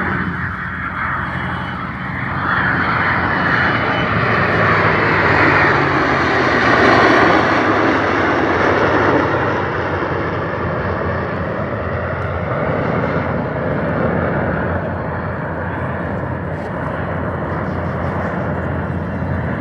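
A formation of aircraft flying past, engine noise building to its loudest about seven seconds in, then slowly fading.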